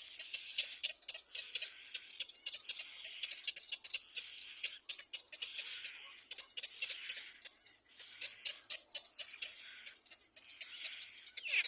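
Little black cormorant chick giving rapid, sharp, high-pitched begging cries, several a second, with a falling call near the end.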